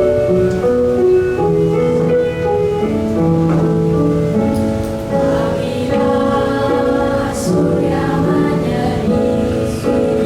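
Small vocal ensemble singing a Malay choral song in harmony, the voices split into separate parts and holding sustained notes.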